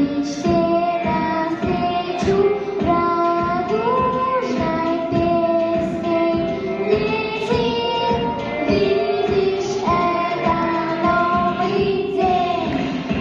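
A young female voice singing a melody with held notes over a backing track with a steady beat.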